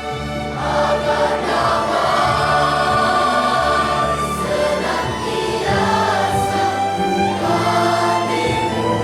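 Children's choir singing with string orchestra accompaniment, the voices coming in about half a second in over sustained low strings.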